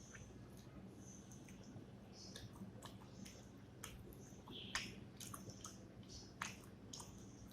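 Close-up chewing of rice and fish curry: soft wet mouth smacks and small clicks at irregular intervals, two of them louder, about five and six and a half seconds in. A faint steady low hum lies underneath.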